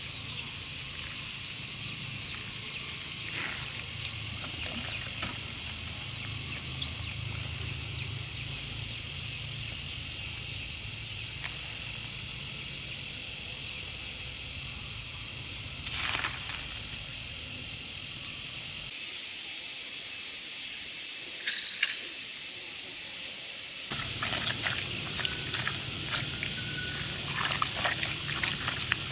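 Outdoor rural ambience: a steady high-pitched drone over a faint low rumble, with a few soft knocks and a brief louder clatter about two-thirds of the way through.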